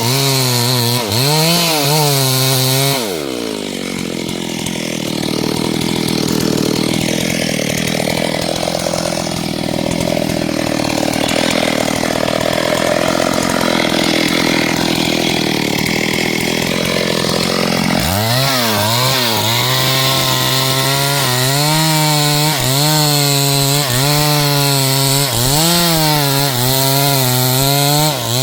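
Two-stroke chainsaw revving unevenly at high speed. About three seconds in, its pitch drops as the chain bites into wood, and it runs under load, cutting, for about fifteen seconds. It then climbs back to high revs and is revved up and down repeatedly.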